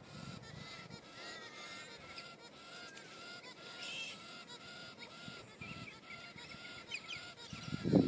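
A bird calling the same short rising-and-falling note over and over at a steady pace, about two and a half notes a second, with fainter higher chirps from other birds.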